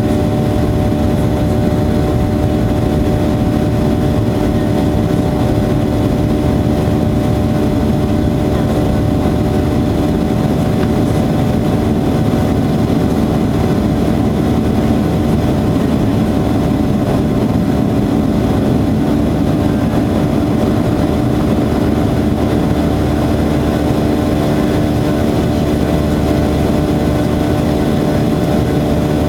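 Boeing 737-800's CFM56 jet engines running steadily: an even rushing drone with several steady humming tones, unchanging throughout.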